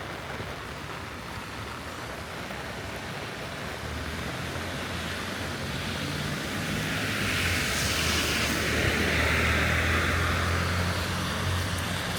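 A car driving past on a rain-wet street: a low engine hum and the hiss of tyres on wet pavement build up, are loudest about two-thirds of the way through, then ease off. Steady rain noise underneath.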